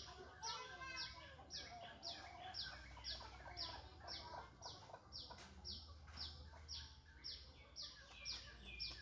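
A bird repeating a short, high, falling chirp very regularly, about twice a second, with other birds and fowl calling faintly behind it.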